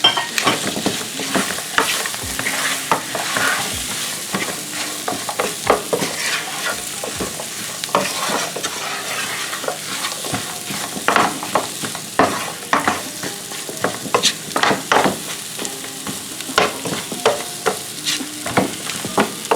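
Chicken pieces coated in curry sizzling in hot oil in a pot while being stirred, with the utensil scraping and knocking against the pot many times.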